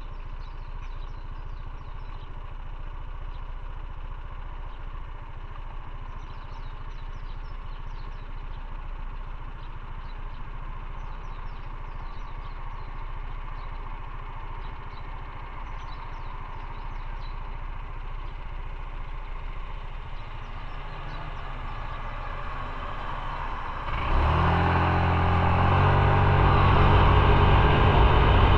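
Motorcycle engine running low and steady, close to idle, then opening up with a sudden jump in loudness near the end as the engine revs and the bike accelerates.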